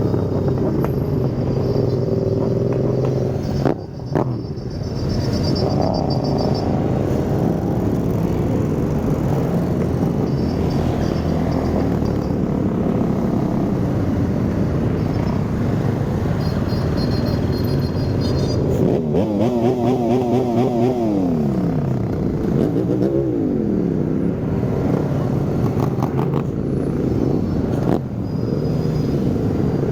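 Many motorcycle engines running together in a slow mass ride, with occasional revving. About two-thirds of the way through, a warbling, siren-like tone sweeps rapidly up and down for several seconds, then glides down and back up.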